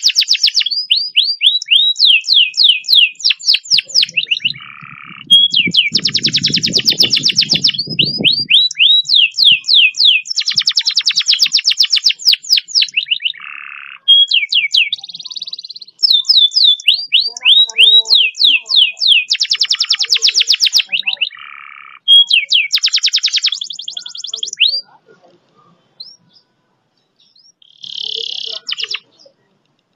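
Canary singing long, fast rolls: rapid trills of evenly repeated high notes in runs of several seconds, broken by brief pauses and a near-quiet gap a few seconds before the end. A low rumble runs under the song for a couple of seconds near the start. This is the long speed-roll master song used to train and provoke other canaries to sing.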